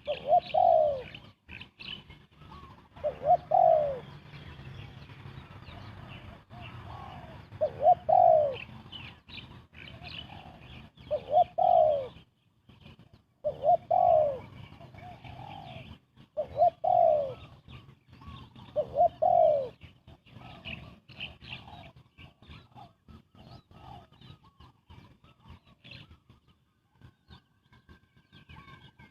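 Spotted dove cooing: a run of short, low coos that fall in pitch, one every two to three seconds, growing faint after about twenty seconds. Higher chirping runs in the background.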